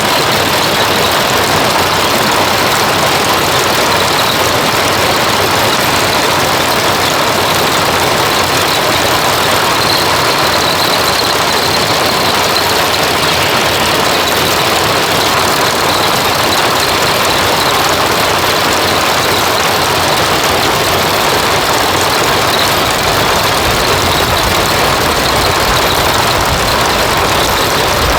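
An engine running steadily and loudly, with no change in speed.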